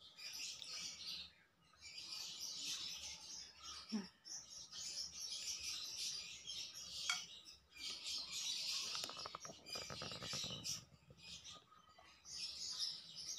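Small birds chirping and twittering in the background, in bursts of a second or two with short pauses between.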